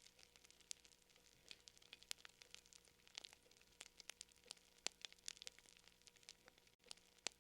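Fire crackling faintly: irregular sharp pops and snaps, several a second, over a quiet steady hiss.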